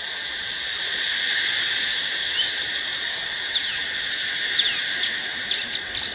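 Tropical rainforest ambience: a steady, high insect drone at several pitches, with short chirping calls scattered over it that come thicker in the second half.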